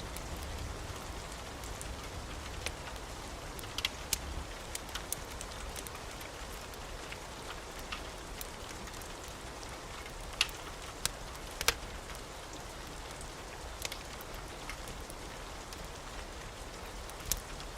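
Wood fire crackling in a fireplace: a steady hiss with scattered sharp pops, a few louder snaps around the middle and near the end.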